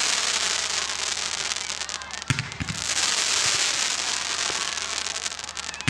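Fireworks going off: a dense, high-pitched crackling from crackling stars, broken by two sharp bangs a little over two seconds in and another near the end.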